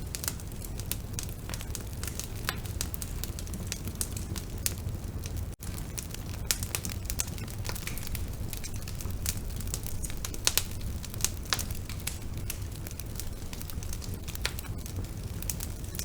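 Bonfire burning, with frequent irregular crackles and pops over a steady low rumble. There is a split-second dropout about five and a half seconds in.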